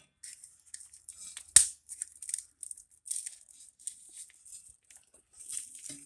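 Metal exhaust parts being handled: a run of light scrapes and clinks, with one sharp knock about a second and a half in.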